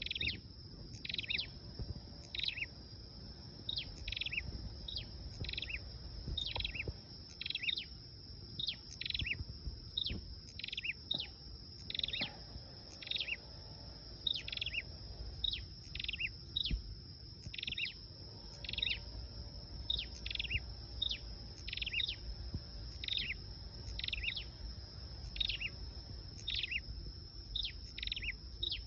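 Lure call of a red-headed flowerpecker (sâu đầu đỏ): short, high notes falling in pitch, given in quick pairs or triplets and repeating about once a second, over a steady high tone.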